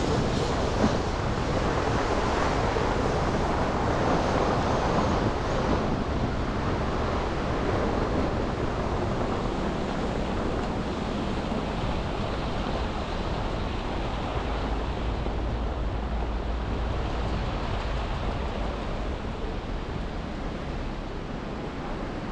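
Steady rushing road noise of car tyres hissing over wet, slushy streets, a little louder in the first few seconds and easing after.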